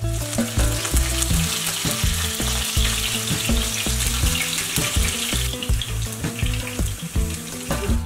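Sliced garlic and green chilies sizzling in hot oil in a nonstick frying pan, the hiss easing a little after about five seconds. Background music with a steady beat plays underneath.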